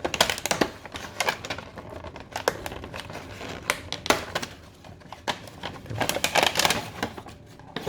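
Irregular clicks, taps and rustles of a plastic toy car being handled and set down by hand.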